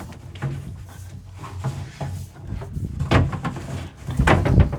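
Red PEX supply tubing being fed through a drilled hole in the wood framing, scraping and knocking against the wood in irregular bumps, with the loudest cluster of knocks near the end.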